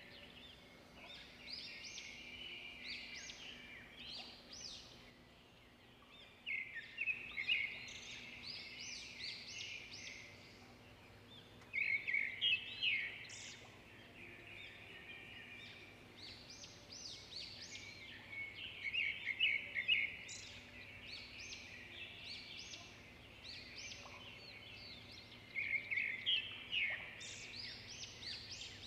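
A bird chirping in repeated quick runs of high notes every several seconds, with softer chirps in between, over a faint steady hum.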